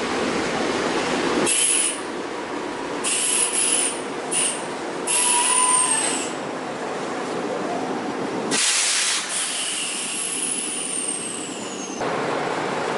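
Nankai 2300 series two-car electric train rolling in and coming to a stop. This is followed by about six short hisses of air from its brake system, some carrying a thin whistle that falls in pitch.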